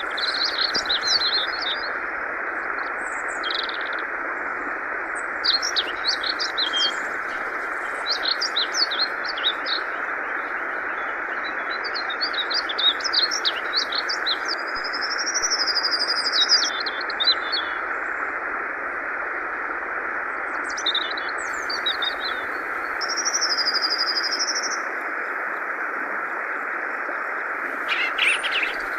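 Yellow-vented bulbul (trucukan) singing in short chattering phrases every second or two, with a couple of longer warbled whistles, over a steady rush of flowing water.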